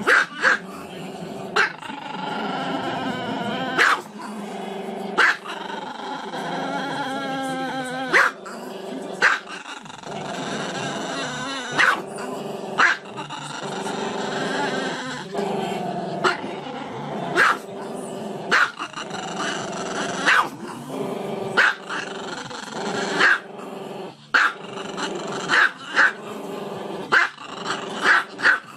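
Tiny black-and-tan Chihuahua growling and grumbling continuously, with a sharp bark every second or so. It is angry and warning not to be touched.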